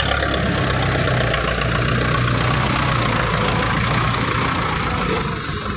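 Dump truck's diesel engine running under load in deep mud, a steady loud engine note that eases off near the end.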